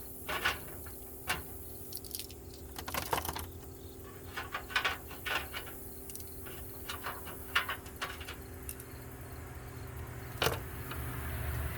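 Small steel sockets clinking against one another as they are picked through and sorted by hand, in scattered sharp clicks and short jingles. A low engine rumble grows near the end.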